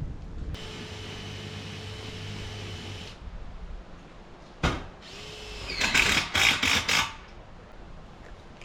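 Power drill running steadily for about two and a half seconds. A little later comes a single sharp knock, then a short run of rapid, loud clattering strokes.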